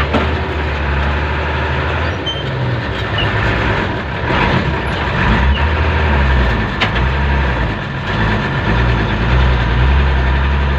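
A motor vehicle engine runs steadily with a low hum, under a constant wash of road and traffic noise.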